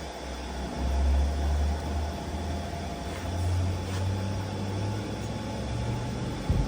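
A workshop machine running with a steady drone, its low hum stepping up in pitch a few times.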